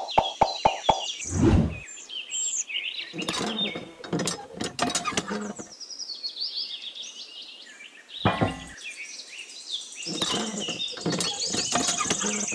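Small birds chirping and twittering, with a run of quick, evenly spaced clicks in the first second and scattered knocks and rustles of handling.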